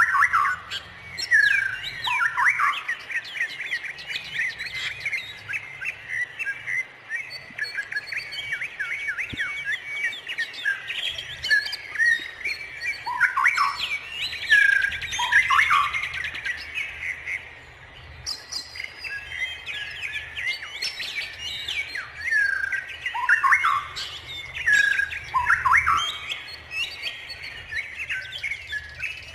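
A dense chorus of many birds chirping and calling at once, with many overlapping short chirps and repeated falling notes.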